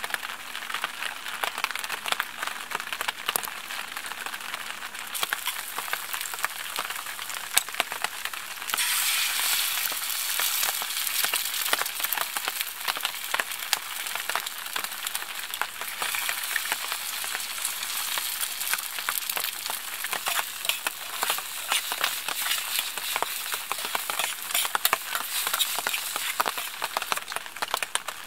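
Spam and eggs frying in an old cast-iron skillet over a canister gas stove, a dense crackling sizzle with many small pops. The sizzle grows louder and brighter about nine seconds in.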